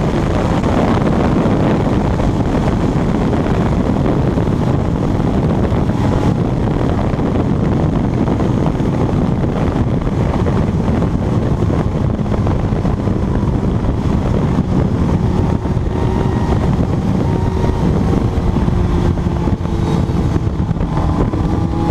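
Kawasaki Ninja motorcycle running at high speed, its engine mixed into a steady loud rush of wind over the microphone.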